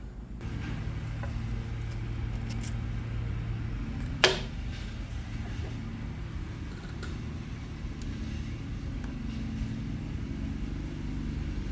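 A steady low hum of a running engine, with one sharp click about four seconds in.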